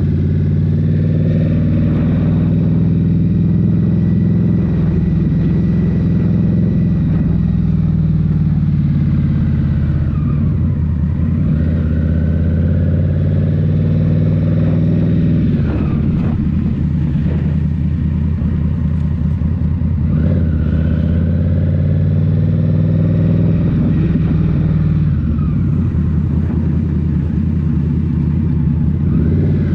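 Indian Scout Rogue's 69 cubic-inch V-twin running under way through a Rinehart slip-on exhaust. Its note falls and rises again several times as the speed changes, with dips about a third of the way in, around the middle and again later.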